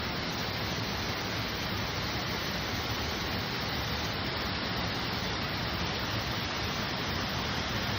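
Fudō-daki, a tall mountain waterfall, pouring: a steady, dense rush of falling water.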